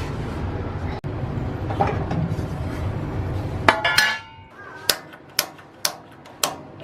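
Gas water heater's piezo pilot igniter being pressed repeatedly: sharp clicks about half a second apart through the second half, while relighting the pilot. Before them, a steady low rumble and two metallic clacks with a short ring, just before the clicking starts.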